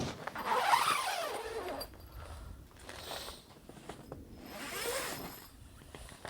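Two drawn-out rustling swishes, the louder about a second in and another near five seconds, with faint handling noise between.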